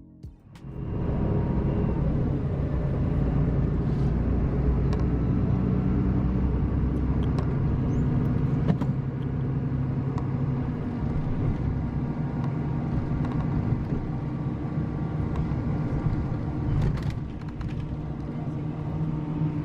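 Bus engine running with a steady low hum, starting about a second in.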